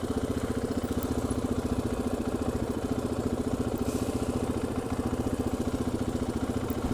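KTM 500 EXC-F single-cylinder four-stroke dirt bike engine idling steadily with an even, fast pulsing beat.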